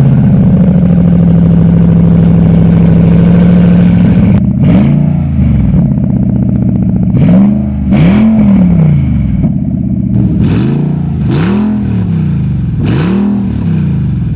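Infiniti FX50's 5.0-litre V8 running with both flex pipes removed, so the exhaust is open at the headers: it idles steadily for about four seconds, then is revved in a series of about six short throttle blips, each rising and falling back.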